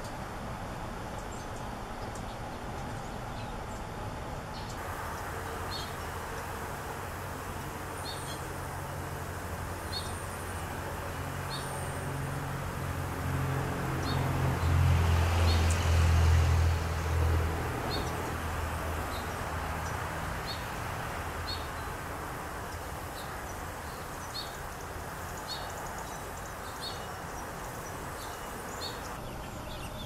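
A small bird repeating short, high chirps about once a second, while the low rumble of a passing vehicle rises and fades, loudest midway.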